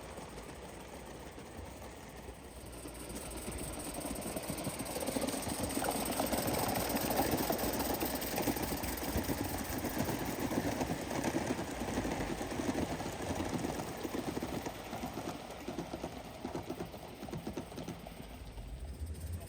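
Gauge 1 live-steam model locomotive running past on the track, its rapid exhaust beats growing louder as it approaches and fading as it moves away.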